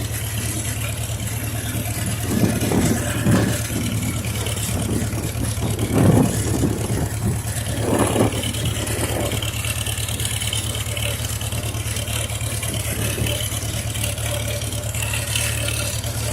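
1951 Farmall H tractor's four-cylinder engine running steadily at full throttle in fifth gear, pulling up a hill. A few brief louder puffs are heard in the first half.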